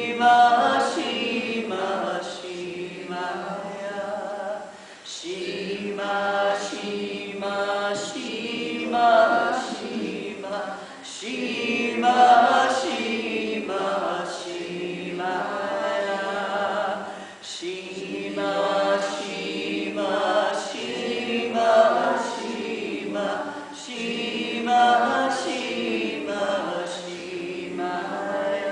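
A group of voices chanting together in unison, singing a short phrase over and over, with a fresh phrase starting about every five or six seconds.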